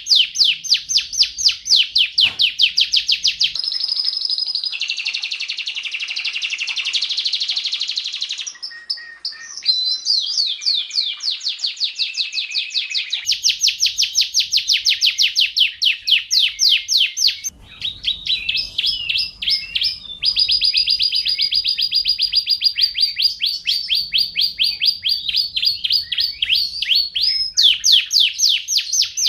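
Domestic canary singing a long song of fast, rapidly repeated trills and rolls, with a few brief breaks between phrases.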